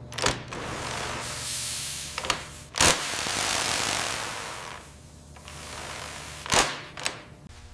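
Workshop clatter: a few sharp metallic knocks, with a hiss lasting a few seconds from about a second in.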